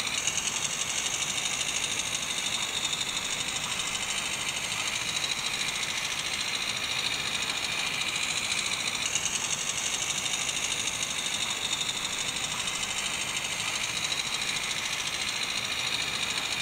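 A model garden-railway vehicle's small motor and gearing running steadily, with a fast, even whir.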